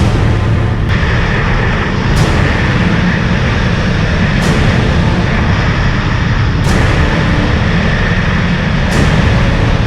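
Sea-Doo jet ski running steadily at speed, with its engine and jet drive loud and constant. A brief sharp slap comes about every two seconds.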